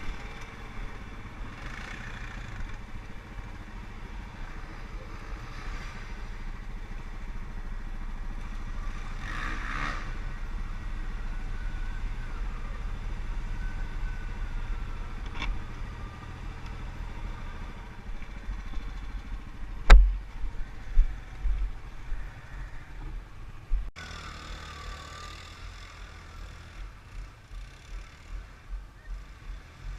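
ATV engine running steadily. About two-thirds through there is a single sharp knock, followed by a series of low thumps.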